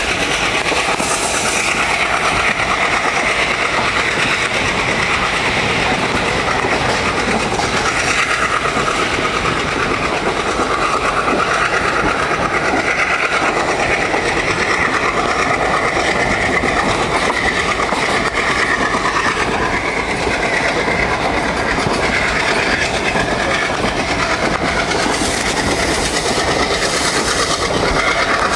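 Passenger train running along the line, heard from on board: a steady, loud running noise of the wheels on the rails, with brief hissy rises near the start and near the end.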